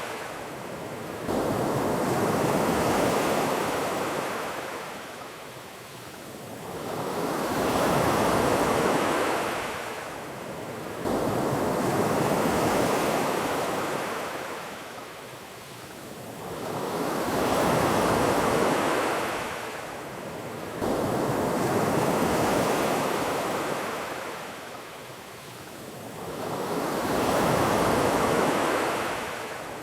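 Ocean surf: waves washing in and drawing back, swelling and fading about every five seconds.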